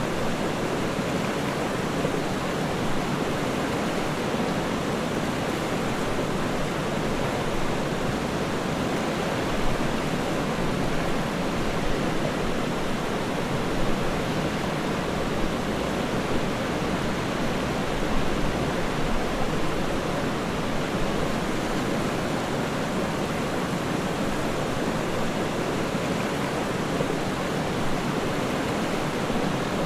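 Waterfall: falling water with a steady, even rush and no breaks.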